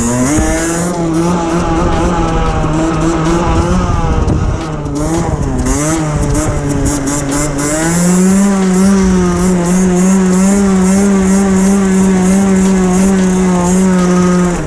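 Derbi Senda 50cc two-stroke engine with an Enox exhaust at high revs, carrying the bike through a no-clutch wheelie in second gear. The revs hold steady, dip about five seconds in, then climb again around eight seconds and stay high.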